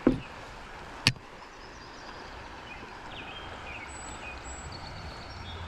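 Steady hiss of rain and creek water, with a dull thump right at the start and a sharp click about a second later.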